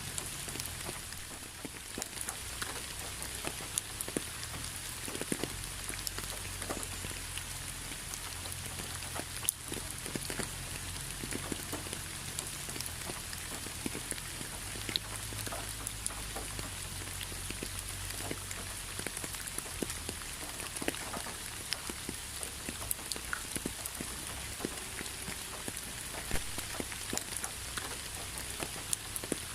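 Steady rain, with many separate raindrops landing close by as sharp little taps over an even hiss of rainfall and a faint low rumble underneath.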